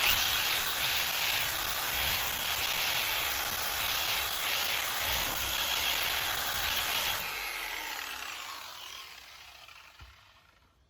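Dual-action polisher running on a headlight lens during a final-polish pass, a steady whirring hiss that starts suddenly. After about seven seconds it is switched off and winds down, fading out over the next few seconds.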